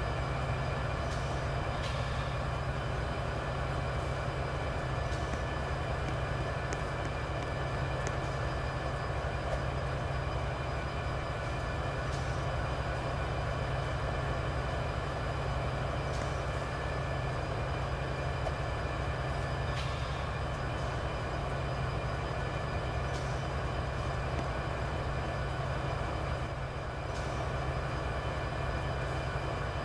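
Train running steadily, a continuous low rumble and hum with faint clicks every few seconds.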